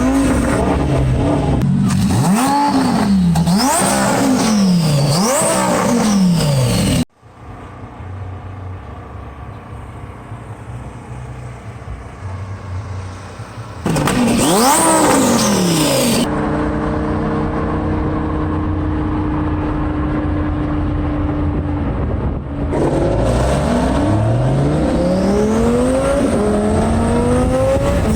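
Twin-turbo Lamborghini Huracán V10 accelerating hard through the gears, its pitch climbing and dropping sharply at each upshift. This comes in several bursts, with quieter running between about 7 and 14 seconds in and a steady engine note between about 16 and 23 seconds in.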